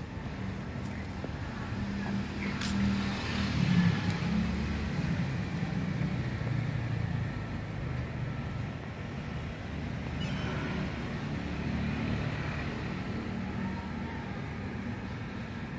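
Road traffic: a motor vehicle's engine running as it passes, a low rumble that swells to its loudest about four seconds in, with a second, weaker swell later.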